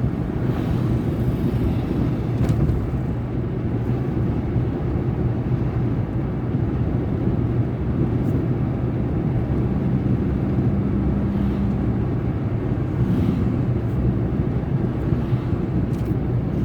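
Car interior road noise while driving slowly: a steady low rumble of engine and tyres on pavement, with a faint low hum from about ten seconds in.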